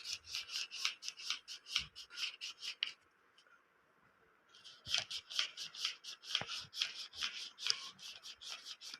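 Folded paper bird's wings flapping as it is pressed from behind: a quick, even paper rustle of about five strokes a second that stops for about a second and a half midway, then starts again.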